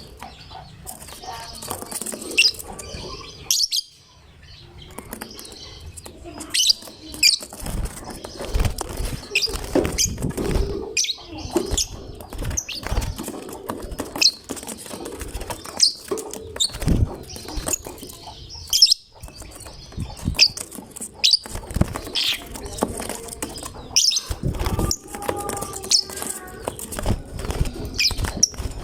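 Lovebird chirping steadily in short, sharp, high calls, sometimes several in quick succession, with bouts of wing flapping and dull rustling thumps in between.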